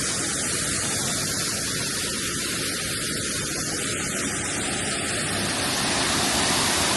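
Waterfall pouring into its pool: a steady rush of falling water, a little louder near the end.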